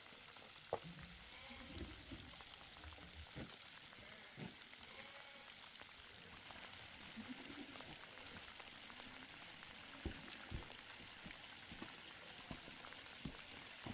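Faint, steady rain hiss with scattered sharp drips or knocks.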